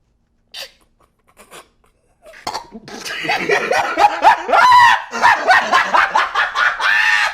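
Dog vocalising excitedly: a rapid run of short, pitched whining and yelping cries that rise and fall, starting about two and a half seconds in.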